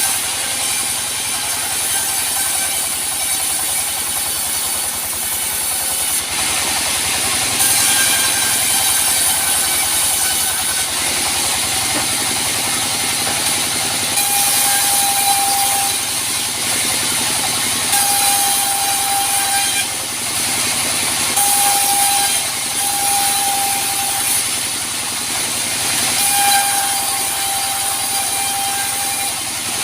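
Sawmill running through teak logs: a steady loud din of motor and saw blade, with a high whine that comes and goes several times in the second half.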